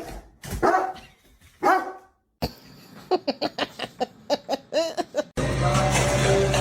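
A dog barking: two single barks, then a quick run of short yappy barks, about four a second. Near the end it cuts to music with people talking.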